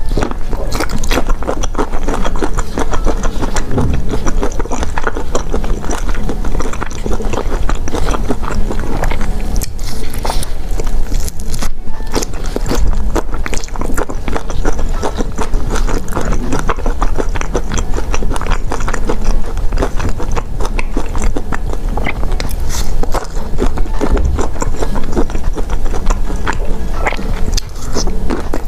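Close-miked eating: dense, continuous biting and chewing of seafood in chili oil, full of small crunches and clicks, over background music.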